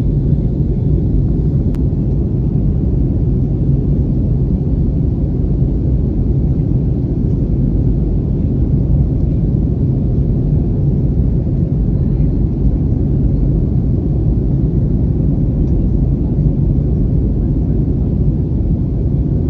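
Steady low rumble of an Airbus airliner in flight, heard inside the cabin: engine and airflow noise with a faint constant hum. A faint click about two seconds in.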